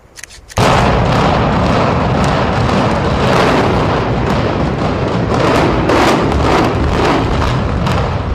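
Controlled demolition charges going off: a few faint clicks, then about half a second in a sudden loud, continuous barrage of sharp explosive cracks in rapid sequence over a deep rumble.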